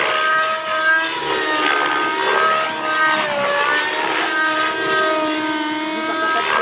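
Radio-controlled model helicopter in flight: a steady high whine from its motor and rotors that dips and rises in pitch several times.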